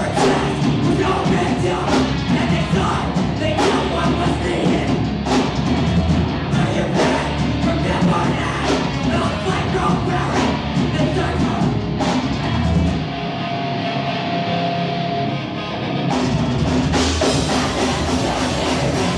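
Loud rock band playing live, with drum kit, distorted guitars and vocals. A little past the middle the drums and bass drop out for about three seconds, leaving one held note, before the full band crashes back in.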